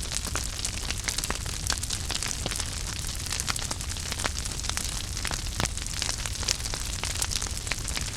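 Wood fire burning in a fireplace: a steady low rumble and hiss with frequent sharp, irregular crackles and pops.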